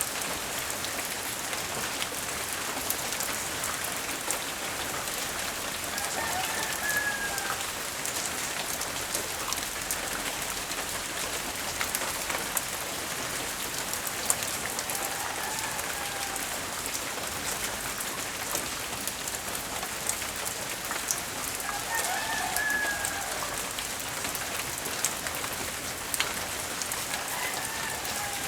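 Steady light rain pattering on surfaces, with a rooster crowing faintly four times, each crow about a second long.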